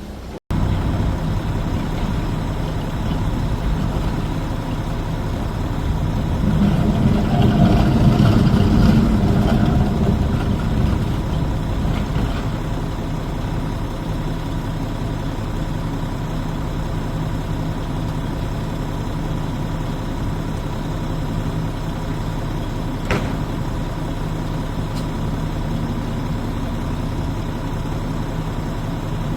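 Garbage truck engine running steadily, growing louder for several seconds as it revs up, then settling back to an even idle. A single sharp click sounds a little before the end.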